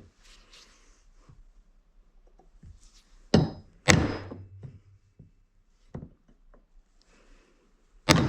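Hard knocks as objects are handled and set down: two loud thunks about half a second apart, a few light clicks, then another loud thunk near the end.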